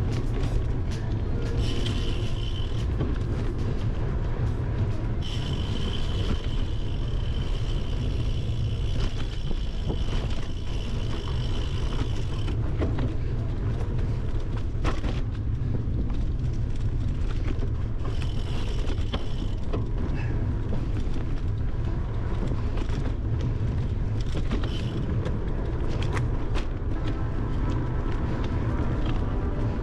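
Bicycle riding over gravel and dirt, heard from a handlebar-mounted camera: a steady low rumble of wind and trail vibration with many small rattles and knocks. A steady high buzz comes and goes several times.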